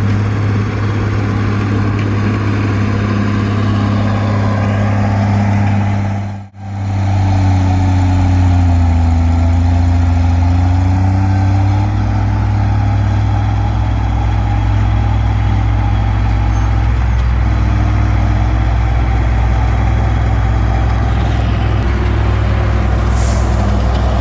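Komatsu D20P bulldozer's diesel engine running steadily at working speed, a deep continuous drone. The sound cuts out for an instant about six seconds in, and a fainter whine dips and rises again a little later.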